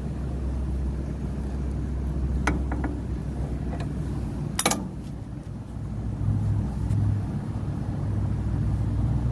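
Steady low mechanical hum of a running machine, with a few light clicks and one sharp knock about four and a half seconds in.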